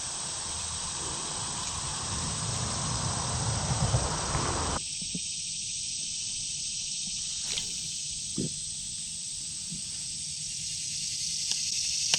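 Steady high-pitched chirring of insects. A low rumbling noise underneath stops abruptly about five seconds in, and a few faint clicks follow.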